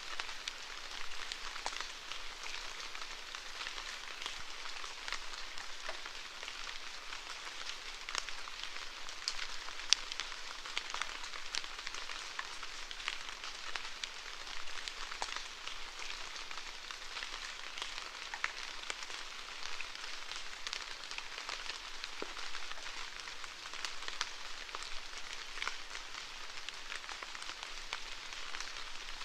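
Steady rainfall, a dense patter of individual drops hitting a surface, with one sharper drop about ten seconds in.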